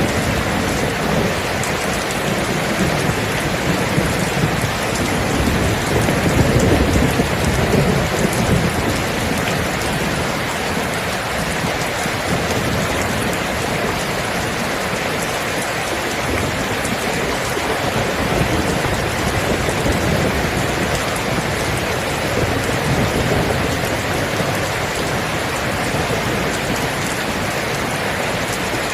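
Steady heavy rain falling, with low thunder rolling and swelling about a quarter of the way in and again past the middle.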